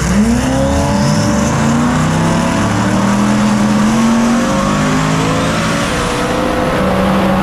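Drag-racing truck's engine at full throttle on a pass down the drag strip. It comes in suddenly, climbs in pitch over the first second, then holds loud and high.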